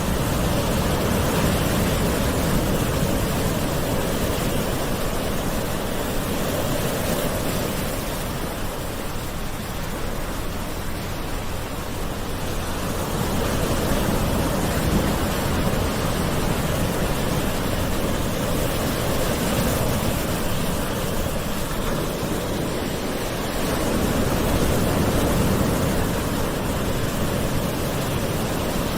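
Gentle ocean waves washing onto a shore in a steady rush, swelling and easing slowly every several seconds.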